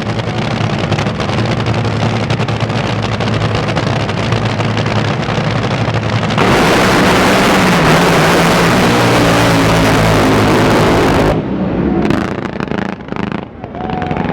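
Racing drag boat engines running loud at the lake. About six seconds in the sound grows louder and harsher, then drops away suddenly about eleven seconds in, leaving a quieter, uneven engine sound.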